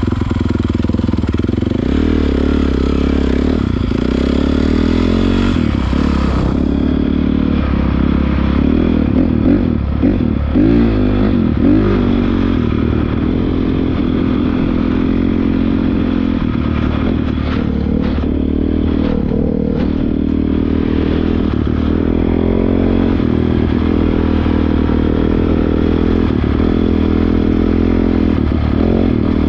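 Honda CRF450R dirt bike's single-cylinder four-stroke engine running under way, its revs rising and falling again and again with the throttle and gear changes. A few sharp knocks and clatter come through about a third of the way in.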